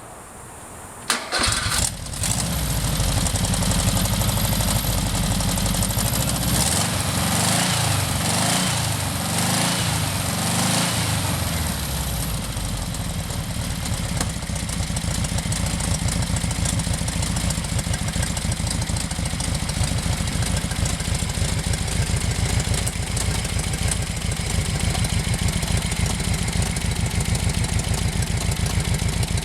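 Air-cooled flat-four engine from a 1968 Porsche 912, running out of the car: it is started about a second in, revved up and down several times, and then settles into a steady idle.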